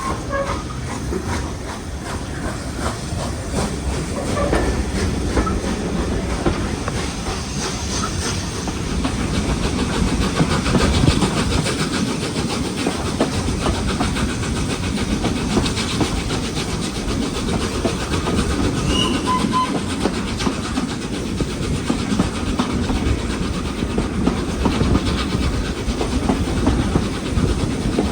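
A train running steadily on the rails: a continuous low rumble with wheels clicking over the rail joints and some hiss.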